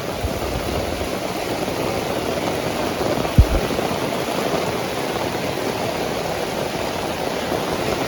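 Heavy rain falling steadily, with a single short low thump a little under halfway through.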